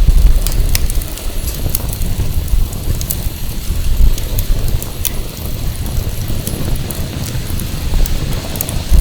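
Firewood burning, with scattered sharp crackles and snaps, over a low rumble of wind buffeting the microphone that is heaviest in the first second.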